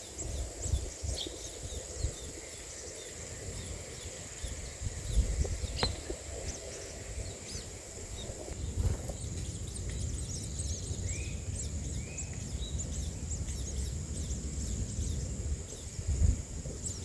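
Outdoor bird-nest ambience: a steady high-pitched hum with many faint, scattered bird chirps and two short rising calls a little past the middle, over a low rumble.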